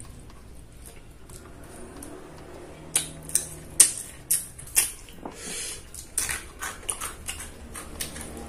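Close-miked eating sounds: after a quiet start, from about three seconds in, a run of sharp chewing clicks and smacks, about two a second.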